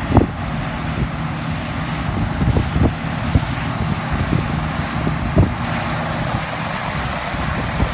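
John Deere combine harvesters running in the field, a steady engine drone, with short low thumps of wind buffeting the microphone.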